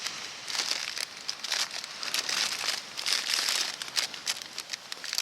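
Crinkly rustling in irregular bursts, like thin plastic or nylon being crumpled and moved about.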